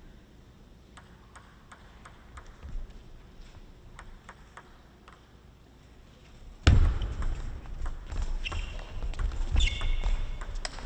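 Table tennis ball clicking back and forth in a rally, sharp light ticks a few times a second, in a quiet hall. About two-thirds of the way in the rally ends and the crowd erupts in loud cheering and shouts.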